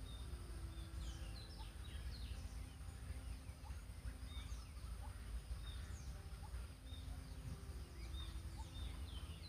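Faint chirping of small birds in the background, many short quick calls repeating irregularly, over a steady low hum.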